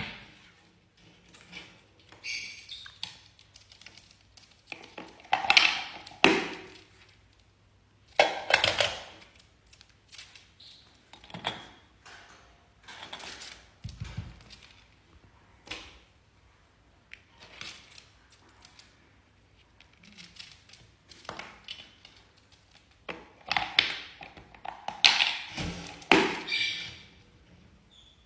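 A parrot calling in short, irregular bursts, with taps and clicks in between.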